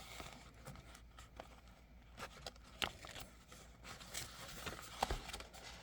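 Faint, scattered light clicks and rustles of a plastic planner cover being pushed onto a planner by hand.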